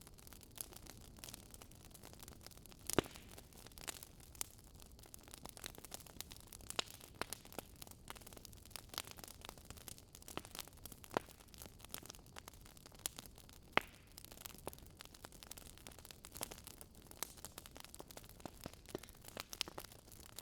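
Wood fire crackling: irregular sharp pops and snaps over a soft hiss, with louder pops about three seconds in and again near fourteen seconds.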